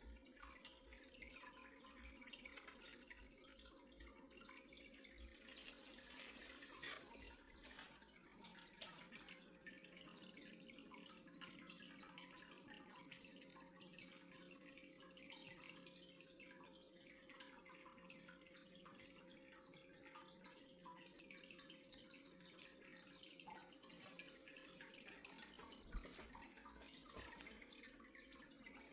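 Near silence: faint room tone with a steady low hum that fades out near the end, and scattered faint ticks.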